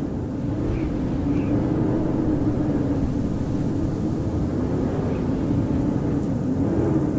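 Howling winter storm wind: a steady low rush with a hollow howl that wavers slowly up and down in pitch.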